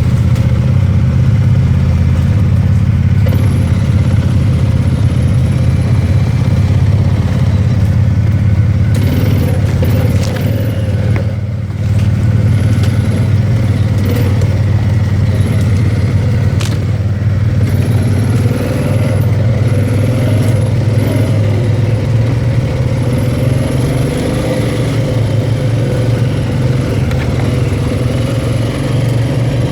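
An ATV (four-wheeler) engine running steadily while riding along a rough trail. The drone dips briefly about eleven seconds in, as the throttle eases, then picks up again.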